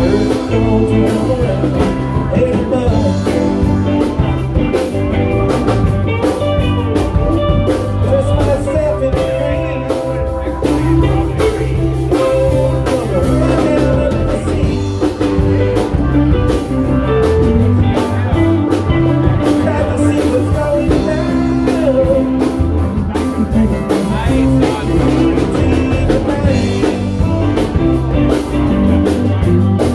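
A live band playing a blues-rock song with electric guitar and drum kit at a steady beat.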